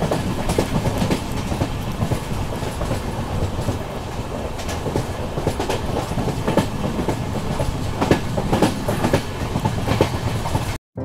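Indian Railways express passenger coach running at speed, heard from the open coach door: a steady rumble of wheels on track with irregular clicks and knocks from the rail joints. The sound cuts off suddenly near the end.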